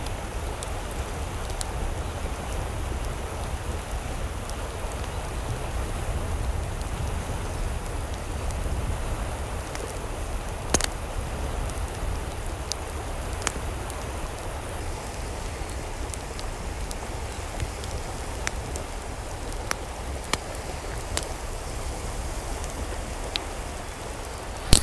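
Steady wash of running or falling water, with scattered single sharp ticks of drops landing over a low rumble.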